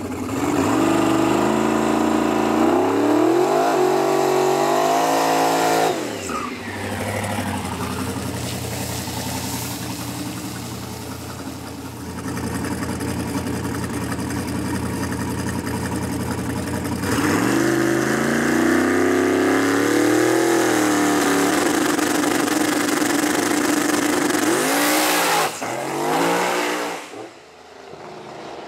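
Drag car's engine on a pass: it climbs steadily in pitch for about six seconds, drops away suddenly, runs on more steadily, climbs again a little past halfway, then rises and falls quickly a few times before the level falls away near the end.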